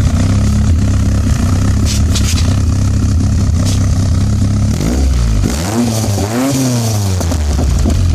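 2-litre Ford Pinto four-cylinder engine with a 4-into-1 race exhaust manifold idling, then blipped once about five seconds in: the revs rise and fall back to idle over about two and a half seconds.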